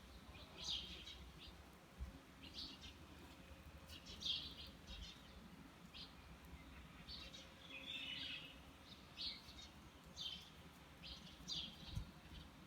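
Small birds chirping: short, high chirps repeated every second or so over a faint steady background.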